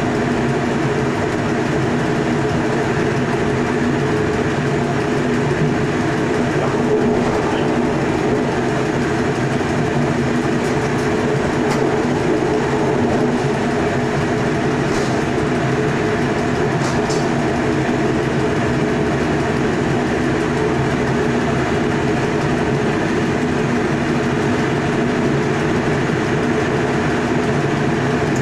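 Electric passenger train running at speed, heard from the driver's cab: a steady rumble of wheels on rail with a constant hum underneath, and a few faint clicks midway.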